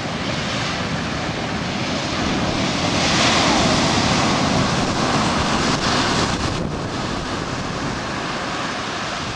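Ocean surf washing in, with wind buffeting the microphone; the rush swells about three seconds in and eases off again.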